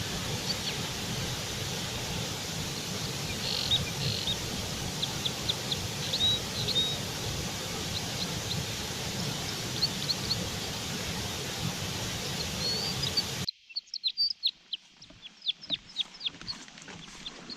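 Small birds chirping: many short, high chirps over a steady hiss and low rumble. The background noise cuts off abruptly about thirteen seconds in, and the chirps continue over near-quiet.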